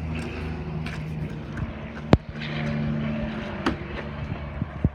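Truck engine idling steadily, with one sharp knock about two seconds in and a couple of lighter clicks later.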